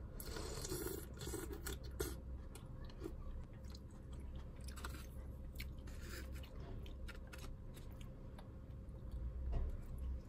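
A person chewing a mouthful of food, with scattered light clicks and taps of chopsticks against plastic takeout containers.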